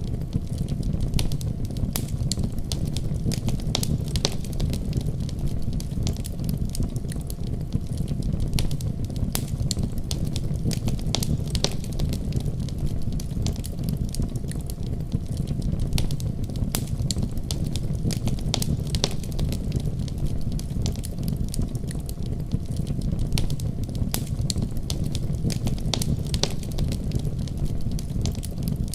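Wood fire crackling, with frequent sharp, irregular pops and snaps, over a steady deep rumble of a snowstorm outside.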